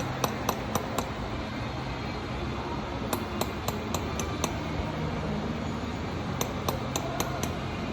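Sharp metallic clicks in three short runs of four to six, about four a second, from hand tools on engine parts, over a steady workshop hum.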